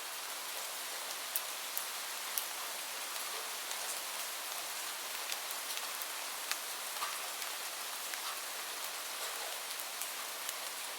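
Steady rain hiss with scattered sharp crackles from a wood fire mixed in, a few a second at irregular intervals.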